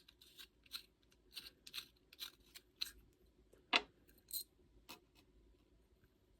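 Small metal parts of a disassembled cornet valve being set down one by one on a hard surface: a string of light, irregular clicks and clinks, the loudest a little under four seconds in.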